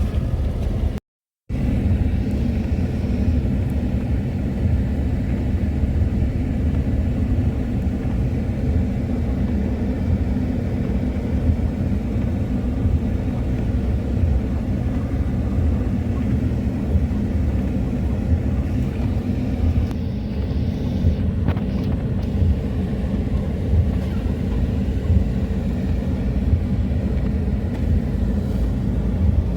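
Steady low vehicle rumble, a car's engine and road noise while driving, broken by a half-second dropout about a second in.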